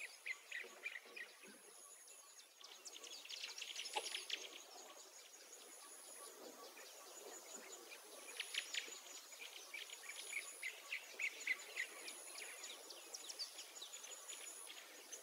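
Faint birdsong: clusters of short, high chirps over quiet outdoor background noise.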